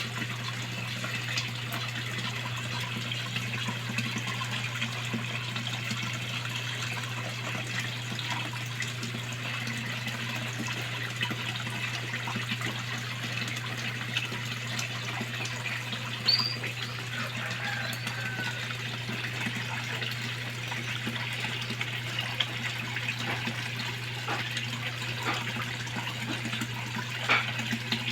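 Running water splashing steadily into a koi pond, over a steady low hum. A bird chirps briefly a couple of times about two-thirds of the way through.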